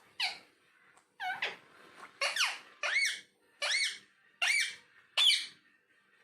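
Ringneck parakeet giving a series of short, shrill squawks, about seven in quick succession, roughly one a second, each rising then falling in pitch.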